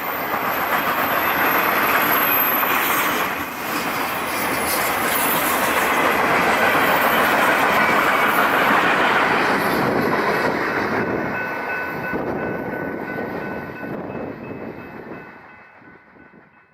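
Freight train rolling past: a steady rumble and clatter of railcar wheels on the rails. Faint wheel squeal comes in over the later seconds, and the sound dies away near the end.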